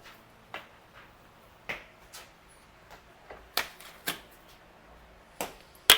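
Irregular sharp clicks and knocks, about seven of them, from tools and bike parts being handled during a fork and tire swap; the loudest comes near the end.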